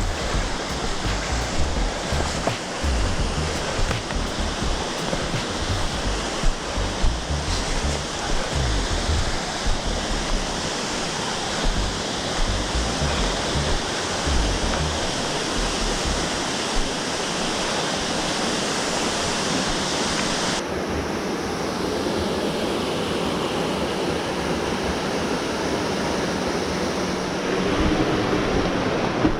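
Steady rushing noise of falling water, with irregular low thuds through the first part. About twenty seconds in, the hiss suddenly turns duller.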